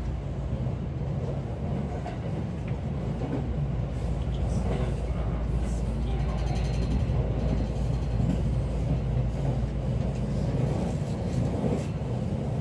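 Steady low rumble of a commuter train heard from inside its Green car.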